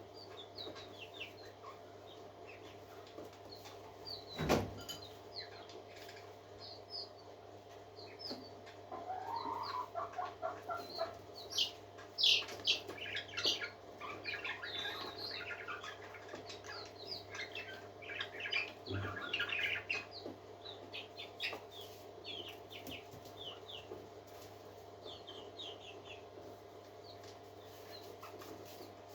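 Parakeets chirping and chattering in many short, quick calls, busiest through the middle, over a steady low hum. A single sharp knock about four seconds in is the loudest sound.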